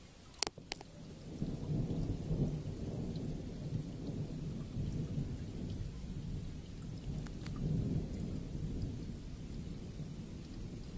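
Thunder: two sharp cracks about half a second in, then a long low rumble that rolls on, swelling and easing, with rain falling.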